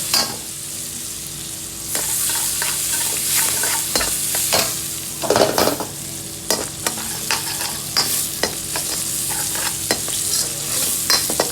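Food sizzling in a hot pan with a steady hiss, while a metal utensil stirs and scrapes it, knocking against the pan many times.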